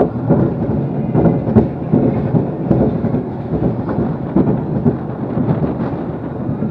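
Loud rumbling wind buffeting on the microphone, with frequent short knocks and rattles mixed in.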